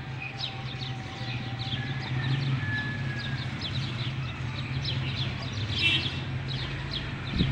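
Birds chirping, a steady stream of short, quick downward-sweeping chirps, over a steady low hum.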